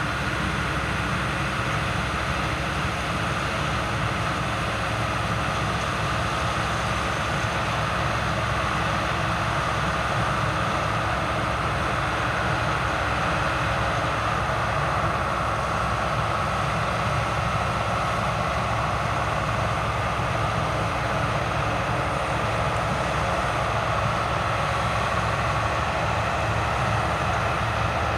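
Heavy farm harvesting machinery running steadily under load: a dense, constant mechanical noise with a steady mid-pitched whine over a low engine drone.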